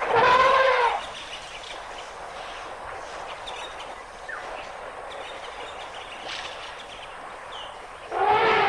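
Elephant trumpeting twice: a call of about a second at the start that falls slightly in pitch, and another starting near the end. Between the calls there is a low outdoor background with faint bird calls.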